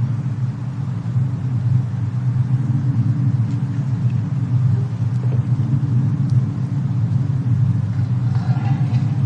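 Steady low rumble of a fireplace-and-snowstorm ambience mix, with a few faint crackles scattered through it and a brief faint higher tone near the end.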